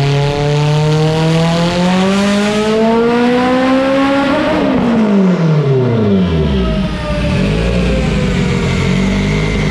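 Built turbocharged 2.0-litre four-cylinder of a Mitsubishi Lancer Evolution VIII making a full-throttle dyno pull. The engine pitch climbs steadily for about four and a half seconds, then drops away quickly as the throttle closes and settles into a low rumble.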